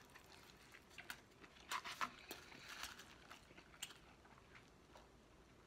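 Faint chewing of a mouthful of burger, with a few soft clicks and knocks about two seconds in.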